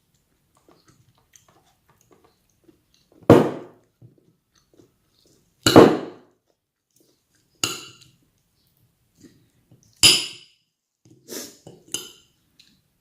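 Cutlery knocking and scraping against a plate while eating, about six sharp clinks a second or two apart.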